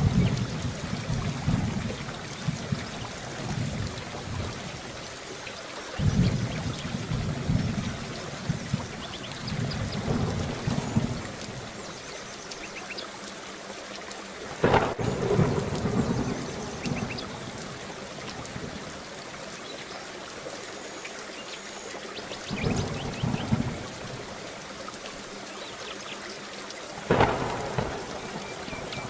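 Steady rain with thunder: low rumbles swell up every few seconds, and two sharp thunderclaps break out, one about halfway through and one near the end.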